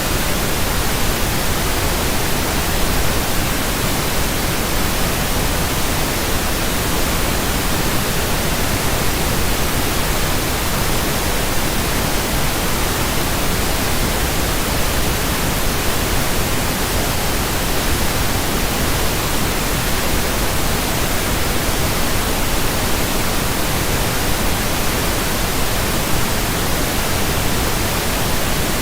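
Steady, unchanging pink noise: an even hiss across the whole range, with no events or variation.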